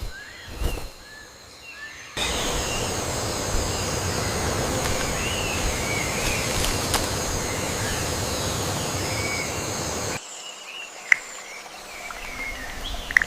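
Rainforest ambience with birds chirping. About two seconds in a loud, steady rushing noise cuts in, and it stops abruptly about eight seconds later, leaving quieter ambience with a few sharp clicks.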